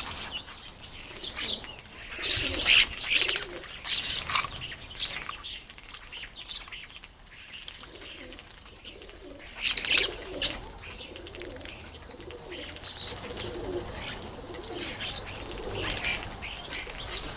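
Starlings screeching harshly in bursts as they squabble over garden feeders, with wings flapping.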